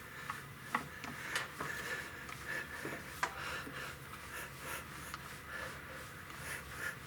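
Stationary exercise bike running under pedalling: a faint steady hum with a few light clicks.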